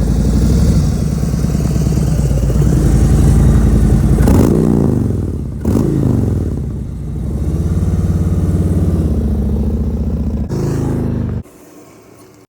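Harley-Davidson Road Glide Standard V-twin with aftermarket exhaust running under way, its pitch rising and falling a few times as the revs change. It drops away suddenly near the end.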